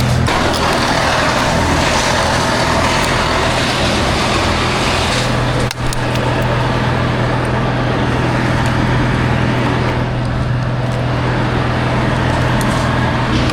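A large engine running steadily at constant speed, with a brief drop in level about six seconds in.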